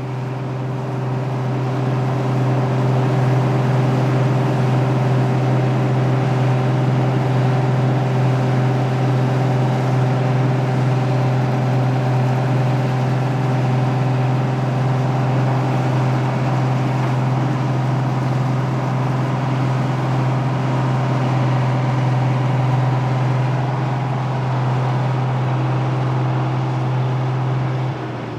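Claas Dominator 68 combine harvester at work, a steady, unbroken drone of engine and threshing machinery that grows louder over the first couple of seconds and drops off sharply just before the end.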